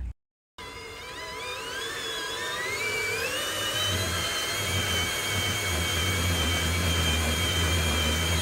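Electric motor and gearbox of a radio-controlled construction model whining, rising in pitch for about three seconds, then holding a steady pitch until it cuts off abruptly.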